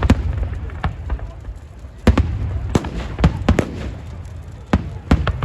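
Fireworks going off: a string of sharp bangs at irregular intervals, sometimes two in quick succession, over a steady low rumble.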